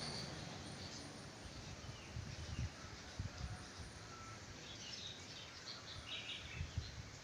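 Sooty-headed bulbul (kutilang) calling faintly in short chirps, mostly in the second half, over a steady outdoor hiss with a few soft low bumps.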